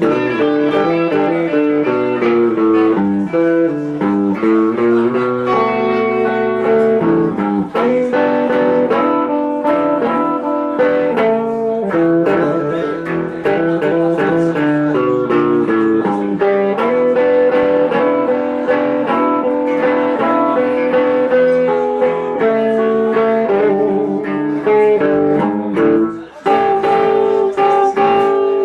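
Blues band playing an instrumental break between verses, led by electric guitar, with shifting pitched notes over a steady accompaniment.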